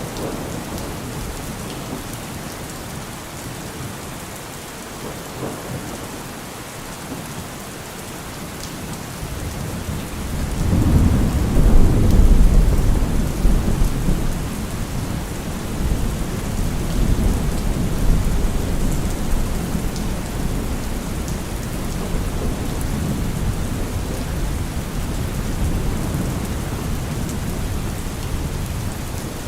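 Heavy rain falling on a car roof as a steady hiss, with a long roll of thunder that builds about ten seconds in, is loudest a couple of seconds later, and keeps rumbling more softly in waves afterwards.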